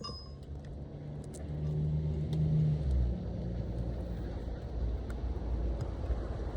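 A short metallic ring at the start, then a motor vehicle going by, its low engine hum swelling to a peak about two and a half seconds in and easing into a steady rumble.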